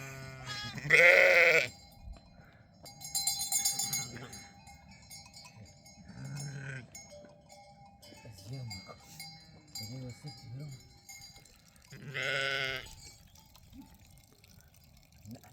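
A flock of sheep and goats bleating: two loud bleats, one about a second in and one near the end, with quieter calls between, and livestock bells clanking.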